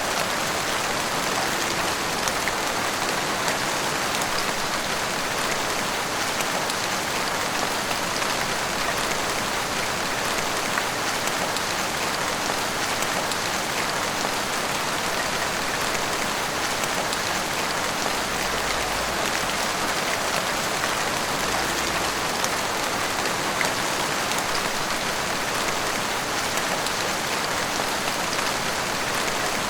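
Heavy rain pouring steadily on a street and rooftops, an even, unbroken hiss of dense drops.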